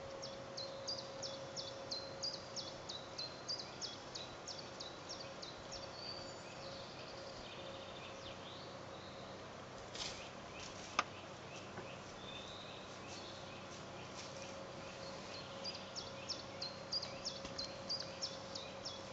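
A small bird calling over and over: high, quick notes that sweep downward, about three a second, pausing for several seconds in the middle and then resuming. A single sharp click about eleven seconds in.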